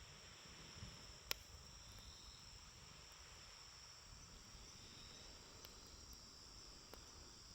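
A campfire burning quietly, with one sharp pop a little over a second in and a few faint crackles later, over steady high insect chirring.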